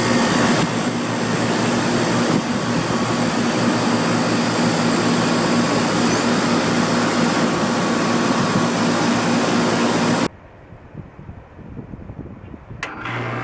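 1995 Tempstar 3-ton outdoor air conditioner unit running: the Copeland reciprocating compressor's steady hum under the condenser fan's rush. About ten seconds in the sound cuts off abruptly to a much quieter stretch, with a single click shortly before the end.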